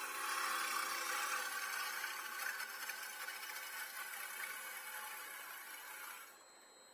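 A turning tool cuts into a thin wooden bowl spinning on a wood lathe: a steady scraping hiss over a faint motor hum. The cutting noise stops abruptly a little past six seconds in.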